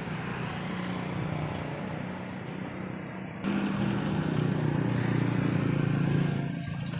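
Motor vehicle engine noise from road traffic, a steady hum that grows louder about three and a half seconds in.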